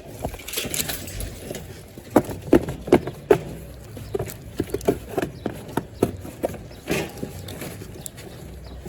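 A series of irregular light knocks and taps, several close together at times, with a low background rumble.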